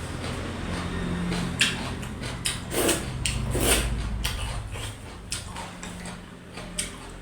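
Close-up eating sounds: chewing with wet mouth smacks and sharp clicks at uneven intervals, over a low steady hum.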